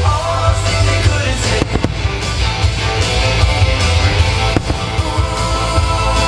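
Loud music with a strong low beat, over which firework shells burst in sharp bangs: two close together about one and a half seconds in, and one more a little past the middle.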